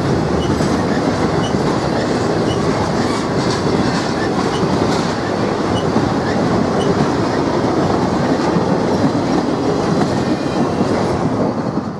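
Double-stack intermodal container train rolling past close by: a steady rumble of wheels on the rails with repeated clicks, until the sound drops away sharply at the very end.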